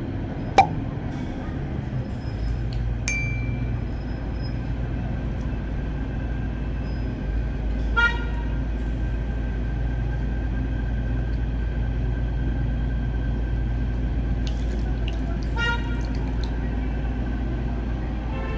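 Steady low rumble of road traffic, with two short vehicle horn toots, one about eight seconds in and another near the end, and a single sharp clink near the start.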